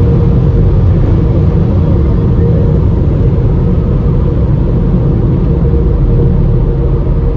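Automatic car wash equipment heard from inside the car's cabin: a loud, steady, deep rumble with a constant hum over it.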